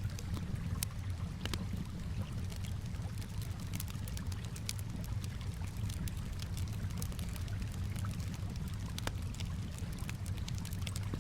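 Campfire crackling, with irregular sharp pops and snaps over a steady low wash of calm water.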